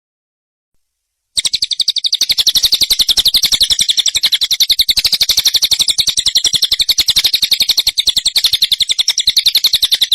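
Songbird master recording: after a second and a half of silence, a loud, fast rattling song of evenly repeated notes, about ten a second, starts abruptly and keeps going.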